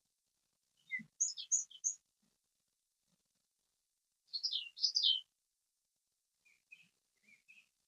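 Songbirds singing: a quick phrase of high chirps about a second in, a second, louder phrase around four to five seconds, and softer short chirps near the end.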